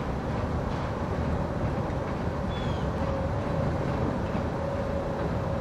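Diesel locomotive and stone train running steadily: a continuous low rumble with a constant mid-pitched whine over it.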